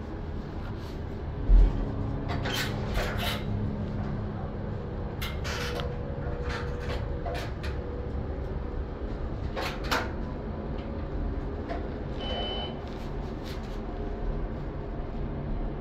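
Inside a PATH train car: a steady low rumble with scattered clicks, knocks and rattles, and one heavy thump about a second and a half in.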